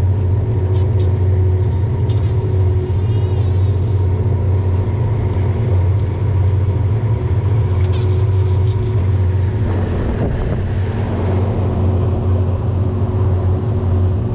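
Outboard motor running steadily as the boat cruises, a constant low drone with a few steady higher tones. A wider wash of noise joins about ten seconds in.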